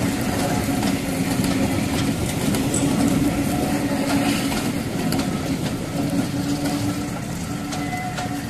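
A charter train's passenger coaches rolling slowly past, with the steady rumble of wheels on rail, scattered clicks over the joints and a faint steady hum underneath.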